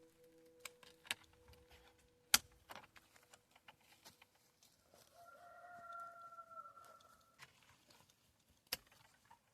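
A rooster crows once, a long held call about five seconds in, lasting a couple of seconds. Scattered sharp clicks and knocks come through, the loudest a single knock a little over two seconds in, and a few soft steady musical tones fade out early on.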